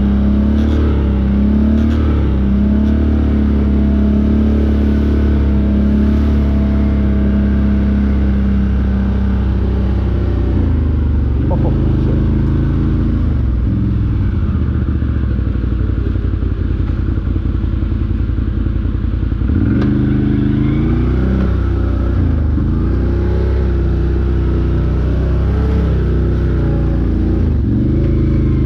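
Off-road vehicle engine running on a trail ride, its pitch rising and falling as the throttle is worked, with revs climbing around 11 s, 20 s, 22 s and near the end.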